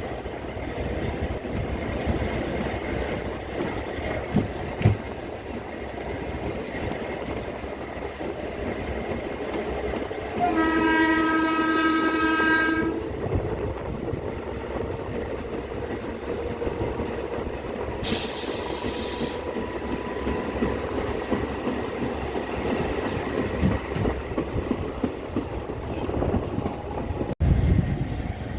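Passenger train running along the track with a steady rumble, its horn sounding once for about two seconds near the middle. A short hiss comes about two-thirds of the way through, and a sharp knock near the end.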